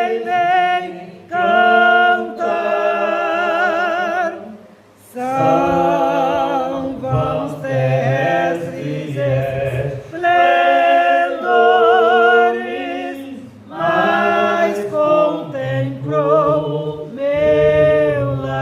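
Unaccompanied singing of a worship song, held notes with a wavering vibrato, in phrases broken by short breaths, the longest pause about five seconds in.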